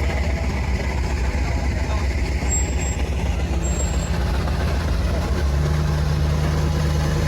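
A motor vehicle's engine running close by, a steady low rumble, with a steady hum added about five and a half seconds in.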